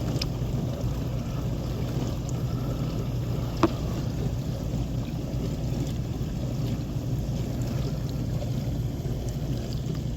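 Samsung dishwasher running, with a steady pump hum and water swishing inside the tub. A single sharp click about three and a half seconds in.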